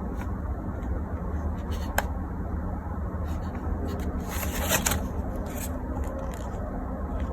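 Plastic toys being handled: scattered light clicks, one sharper click about two seconds in and a short rustling clatter a little past the middle, over a steady low hum.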